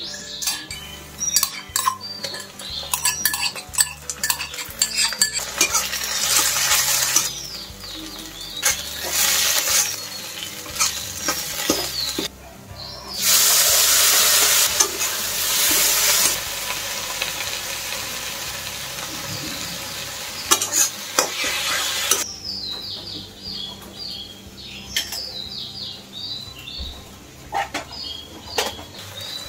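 Cooking in a metal wok on a gas stove: a spatula scraping and clinking against the pan, with a loud sizzle starting about 13 seconds in as chopped tomatoes go into the hot oil, easing off after several seconds. Birds chirp faintly near the end.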